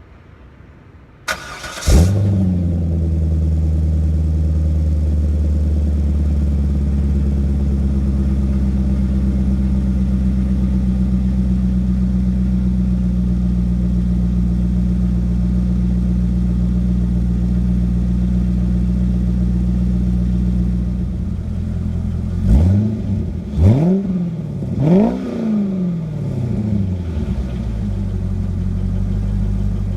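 C5 Corvette's 5.7-litre V8 starting through a DNA Motoring axle-back exhaust. It cranks briefly, catches with a loud flare, then idles steadily. After about twenty seconds the idle settles a little, the engine is blipped three times in quick succession, and then it idles on.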